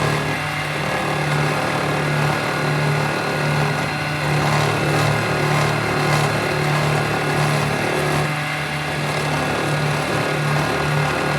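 A motor or small engine running steadily with a constant low hum.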